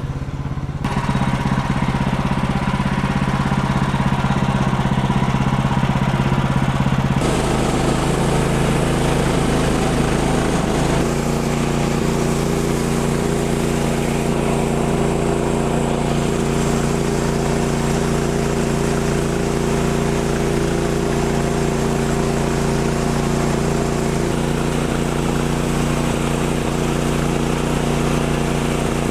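A portable bandsaw sawmill's gas engine running steadily. Its sound changes about a second in, and again around seven and eleven seconds in.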